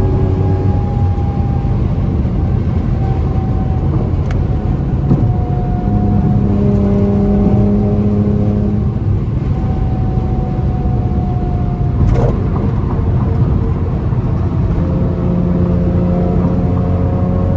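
Car engine and road noise at a steady highway cruise. The engine note holds nearly constant pitch with only small rises and dips, over a continuous low rumble, with a couple of faint brief clicks.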